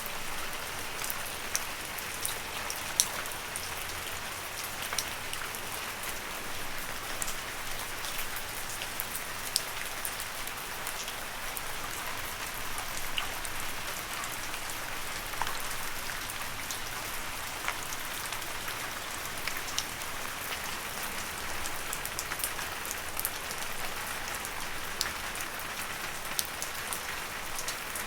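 Steady rain falling on leaves: an even hiss of rainfall with many separate drop taps scattered through it, a few of them louder and closer.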